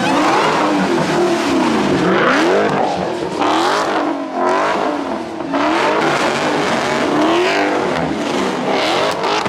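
Car engines revved hard over and over. The pitch rises and falls repeatedly, with loud noisy surges every second or two.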